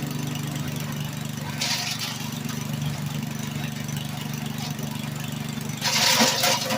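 MacKissic Mighty Mac wood chipper's small gasoline engine running steadily, with two louder bursts of rough noise: one about a second and a half in, and a longer one near the end.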